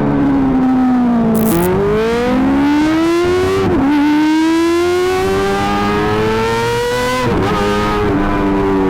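Kawasaki ZX-25R's inline-four engine breathing through an Akrapovic GP exhaust, loud and high-revving. Its pitch falls briefly, then climbs twice with a sharp drop after each climb, as when accelerating through the gears, and holds steady near the end.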